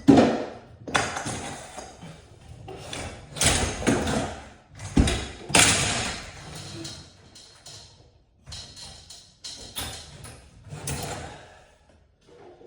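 A series of sudden knocks, bangs and scraping clanks, about nine in all and spaced unevenly. The loudest come at the very start and around five to six seconds in.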